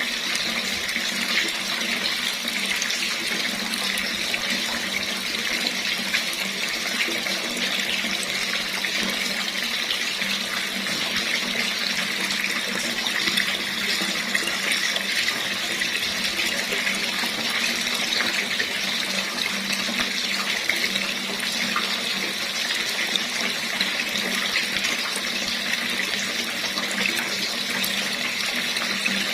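Tap water running steadily into a basin, a constant even splashing hiss.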